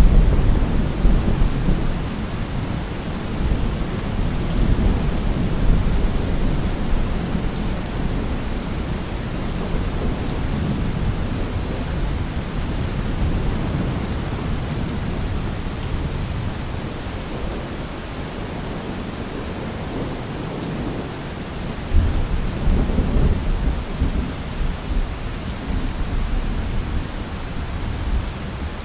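Thunderstorm: steady heavy rain with rolling thunder. A low rumble is dying away near the start, and about three quarters of the way through a sudden new thunderclap breaks in and rumbles on.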